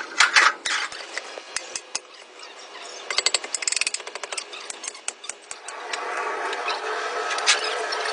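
Workshop tool noise: a run of sharp clicks and knocks, then a steady machine sound starts about six seconds in.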